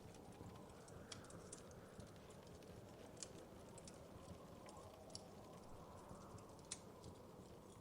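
Fire in a fireplace crackling quietly, with irregular sharp pops and snaps over a low steady rumble of the flames. A few of the pops are louder than the rest.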